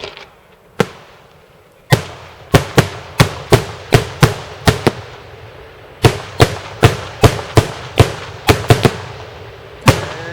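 Daytime fireworks bursting overhead: a single sharp bang, then a rapid run of loud bangs, two or three a second, each with a short echoing tail. There is a brief lull about five seconds in, then another run of bangs.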